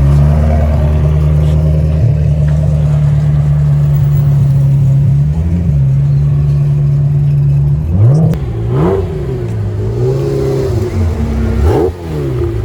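A car engine running loud and steady at raised revs for about eight seconds, then revved in three or four quick blips, each climbing and dropping back.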